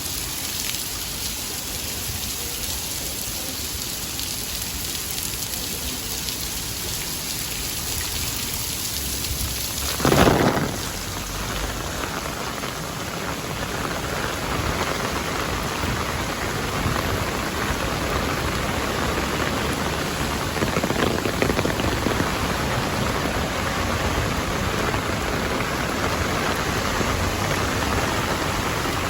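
Rain falling steadily, a continuous hiss, growing louder about halfway through. A sudden loud burst of noise about ten seconds in stands out above the rain.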